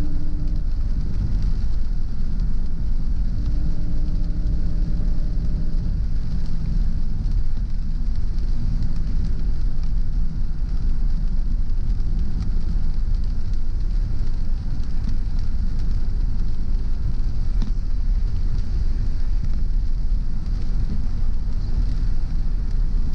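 Car driving on a wet road in the rain: steady road noise with tyre hiss, and a low engine hum showing as a faint steady tone in the first few seconds.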